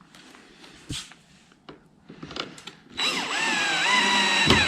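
A few light handling knocks, then about three seconds in a cordless drill runs for about two seconds, driving a screw, its motor whine dipping and rising in pitch as it loads.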